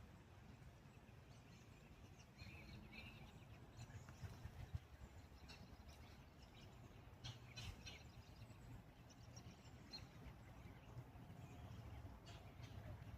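Faint outdoor background: a low steady rumble with a few scattered, distant bird chirps.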